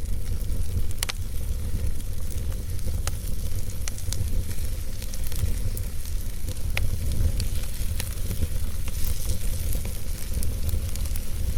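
Fireplace fire burning, crackling with scattered sharp pops over a steady low rumble.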